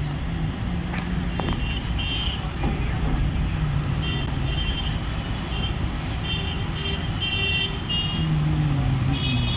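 Train running over a river bridge with a steady low rumble, and short high-pitched tones coming and going several times over it.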